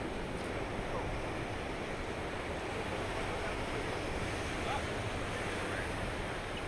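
Heavy surf from a stormy sea, a steady rush of breaking waves, with wind on the microphone.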